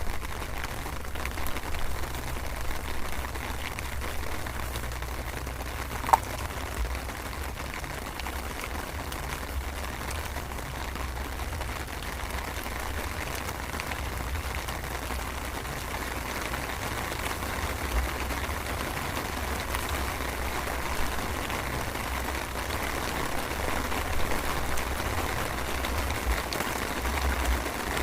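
Light drizzle falling steadily: an even hiss of fine raindrops, over a low, unsteady rumble. One sharp tick comes about six seconds in.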